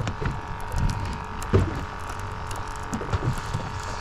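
A steady hum from the fishing boat, with irregular low knocks and thumps.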